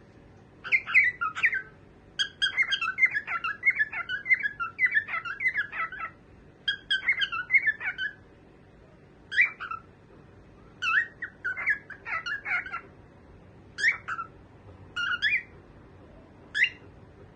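Cockatiel chirping and whistling in quick runs of short rising and falling notes, then in shorter single calls and pairs spaced a second or two apart.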